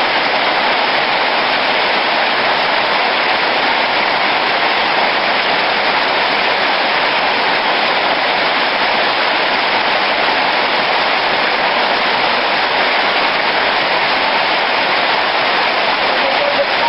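Heavy rain falling in a steady, loud, unbroken hiss.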